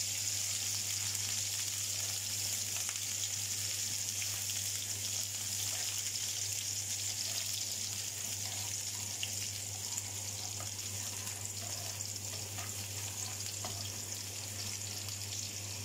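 Sliced shallots and whole garlic cloves frying in hot oil in a pan: a steady sizzling hiss, with a spatula stirring now and then.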